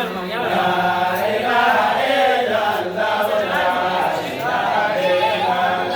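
A group of voices chanting together, a sustained, melodic devotional chant.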